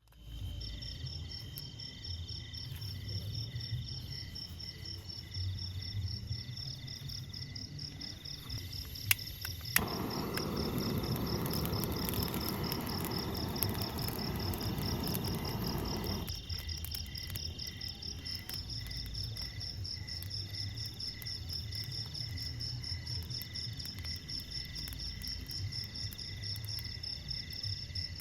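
Night insects trilling steadily in a high, rapidly pulsing chorus. About ten seconds in, after a couple of sharp clicks, a low rushing noise comes in; it stops suddenly about six seconds later.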